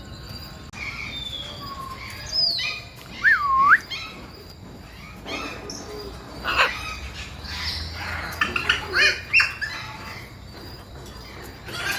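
Captive birds in an aviary calling: loud whistled calls, one swooping down in pitch and back up, a few seconds in, then a quick run of short chirps near the end.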